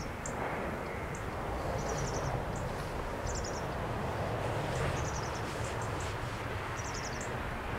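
A small bird singing in short, high, twittering phrases every second or so, over a steady background of wind and rustling leaves.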